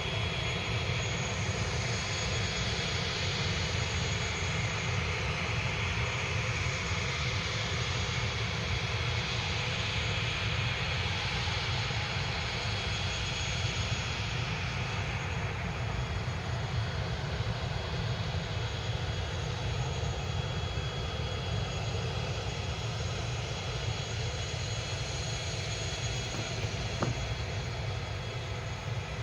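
Jet airliner engines running: a steady low rumble under a thin high-pitched whine and hiss, with the whine fading about halfway through.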